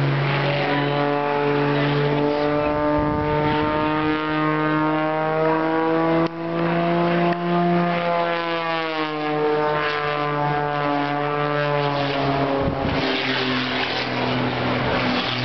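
Propeller airplane engine droning steadily, its pitch slowly rising to a peak about halfway through and then falling away as the plane flies its manoeuvres.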